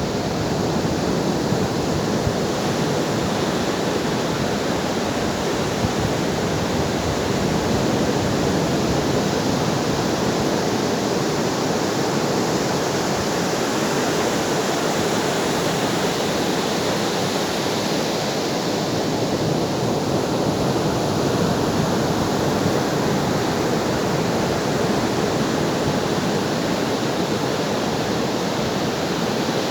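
Ocean waves breaking and washing ashore in a continuous, steady rush of surf, with only slow, gentle swells in loudness.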